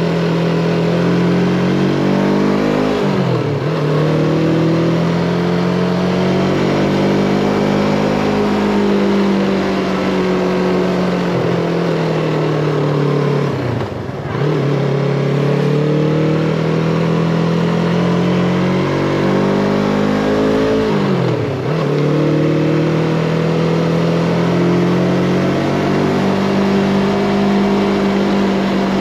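Yamaha MT-25's 249 cc parallel-twin engine running steadily. Three times, about 3 seconds, 14 seconds and 21 seconds in, its note drops sharply and climbs back up.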